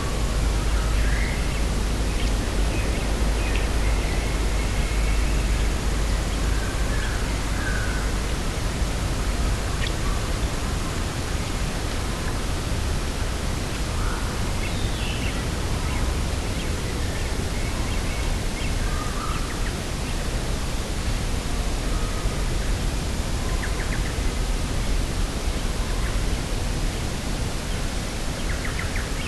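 Steady wind noise with a low rumble of wind on the microphone that eases after about ten seconds, and faint, scattered bird calls.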